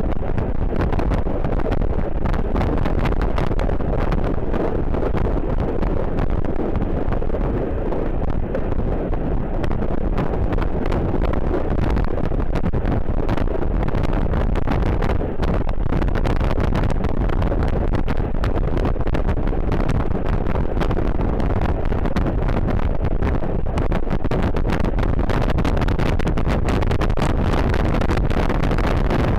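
Wind buffeting the microphone, with crackles, over a steady low rumble.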